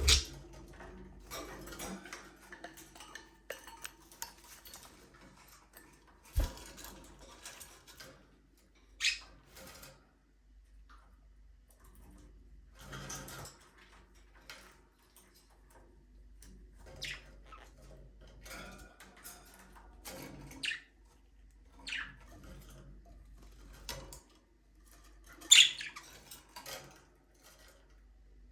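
Budgerigars chirping in scattered short, high calls with quiet gaps between them. A few sharper, louder calls come about nine seconds in and again near the end, and there is a single knock about six seconds in.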